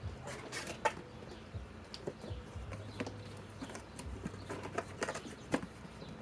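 Cardboard box being handled: scattered light clicks, taps and rustles, with a faint low hum in the middle.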